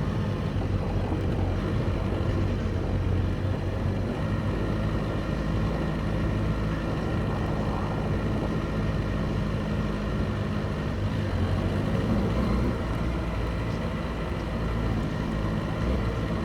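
Motorcycle engines running steadily at low, near-idle revs, a constant low hum with little change in pitch.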